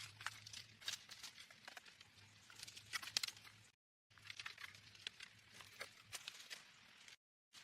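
Close, irregular crinkling and clicking handling noises, like material being worked by hand. The sound cuts to silence twice.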